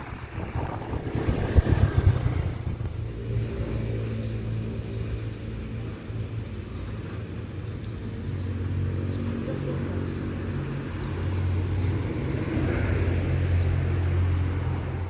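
A vehicle's engine running with a steady low hum.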